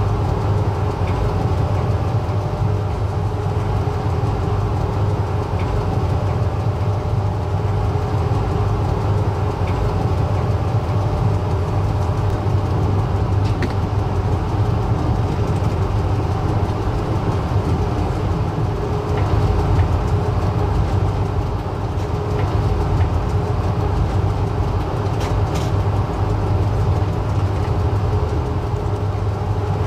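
Passenger train running along the track: a steady low rumble with a constant hum, and a few faint clicks and rattles scattered through.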